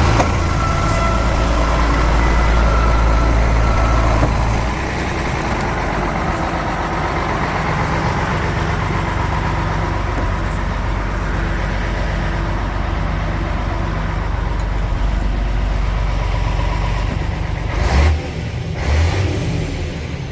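Iveco 380E42 6x6 truck's diesel engine running, a little higher for the first few seconds and then settling to a steady idle. Two short thumps come near the end.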